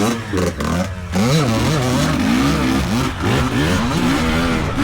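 Dirt bike engine revving up and down over and over, the pitch rising and falling every second or so.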